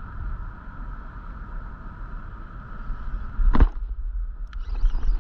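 Wind buffeting the microphone as a low rumble over a steady hum, with one sharp, loud noise about three and a half seconds in.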